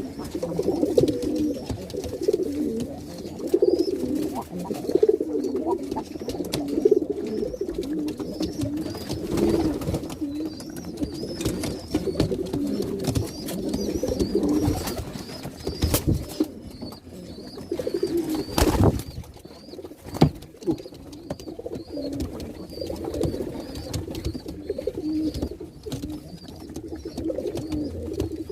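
Domestic pigeons cooing continuously, a male courting a hen. Faint high chirps repeat in the background, and two sharp knocks come a little past the middle.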